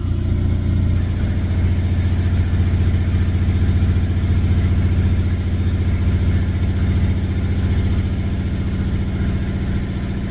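Engine running steadily at idle with an even, low hum, which is most likely what drives the sawmill edger being run after its bearing change.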